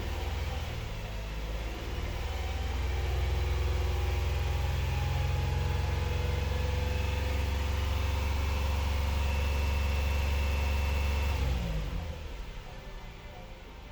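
2022 Hyundai Palisade's V6 engine running at idle, steady, then switched off about eleven and a half seconds in, its note sliding down and dying away.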